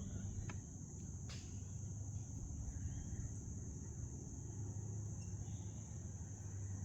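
Insects, crickets by the sound, trilling steadily in one high unbroken drone, over a low steady hum, with two faint clicks in the first second and a half.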